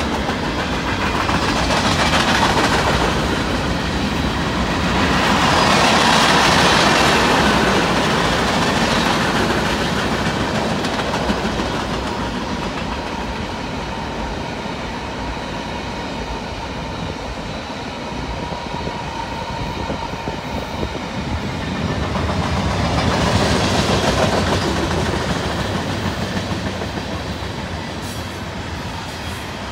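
Boxcars, tank cars and covered hoppers of a long Union Pacific mixed manifest freight train rolling past: a steady rumble and clickety-clack of steel wheels on the rails, swelling louder three times as cars go by.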